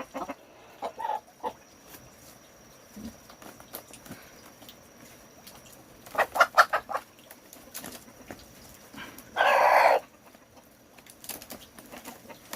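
Chickens clucking in short bursts, with a quick run of calls about six seconds in and one loud, harsh squawk lasting about half a second near the end.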